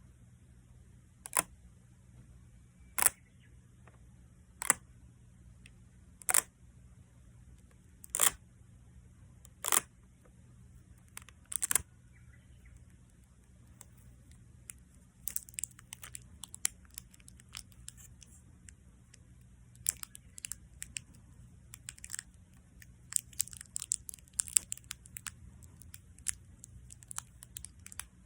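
Adhesive tape or a sticky surface being peeled, with a short crackly rip about every second and a half, seven times. From about halfway through, the peeling turns into a dense run of small sticky crackles and pops.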